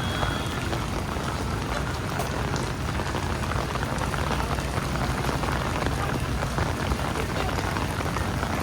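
Steady rain falling on a city street, a dense patter of drops over a steady low hum.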